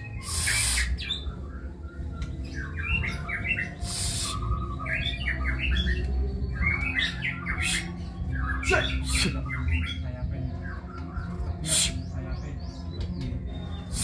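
White-rumped shama singing in short clusters of quick, varied phrases, broken by a few short loud noisy bursts at about half a second, four seconds and twelve seconds in, over a low steady hum.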